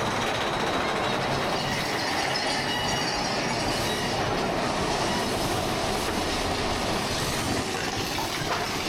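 Mine-train roller coaster running along its steel track: a steady rumble of wheels and cars, with a faint high wheel squeal at times.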